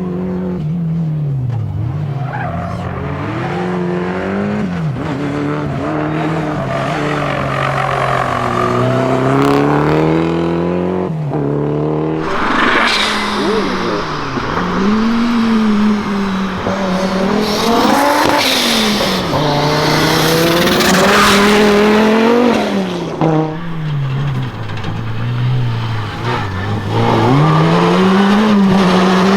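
Rally car engine revving hard, its pitch climbing and dropping again and again as it accelerates, shifts and lifts off, with bursts of tyre squeal in the middle.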